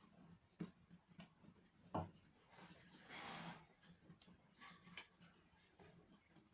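Near silence: room tone with a few faint clicks and a soft hiss about three seconds in.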